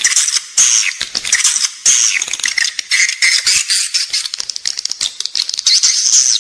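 Edible-nest swiftlet call recording of the 'inside the building' kind: a dense, unbroken high twittering chatter of rapid clicks and short chirps, the lure sound played in swiftlet houses to draw the birds in to nest.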